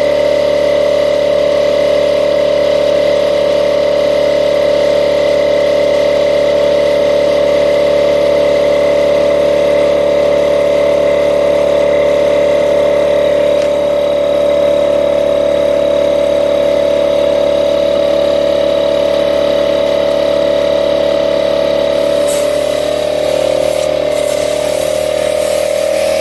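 Single-cylinder piston air compressor running steadily with a constant whine, pumping up flat tyres. Near the end a high hiss joins the running sound.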